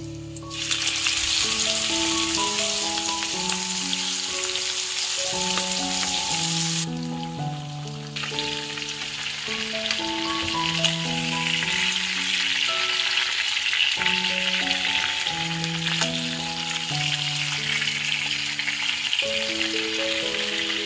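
Chicken thighs frying in hot butter and oil in a pan, sizzling loudly. The sizzle starts about half a second in, dies down for about a second around seven seconds in, then carries on. Soft background music plays under it.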